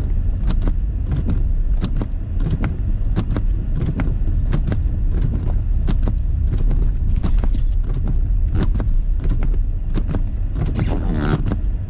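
Car driving through snow, heard from inside the cabin: a steady low rumble with many short clicks and knocks, a few a second and irregular.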